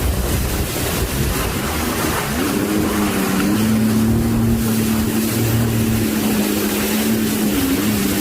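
A motorboat engine running under a constant wash of wind and waves. Its note climbs about two and a half seconds in, then holds steady until near the end.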